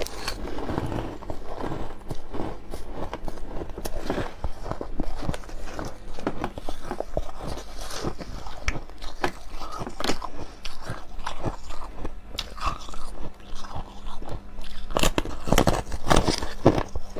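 Close-up crunching and biting of hard ice: a dense, unbroken run of crisp cracks and crunches.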